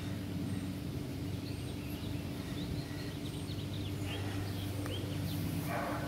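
Small birds chirping in short repeated notes, more often in the second half, over a steady low hum.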